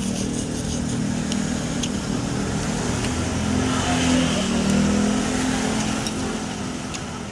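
A passing motor vehicle's engine, growing louder to a peak about four seconds in and then fading away, with a few light clicks.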